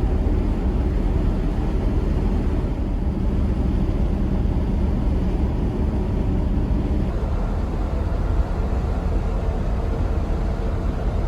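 A van's newly rebuilt engine being broken in, heard with road noise while driving: a steady low rumble.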